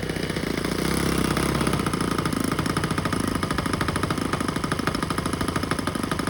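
Engine of an RC model Corsair warplane running, with a rapid, even pulsing of firing strokes.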